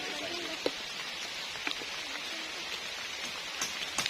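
Steady rain falling, an even hiss with a few sharp drops tapping close by.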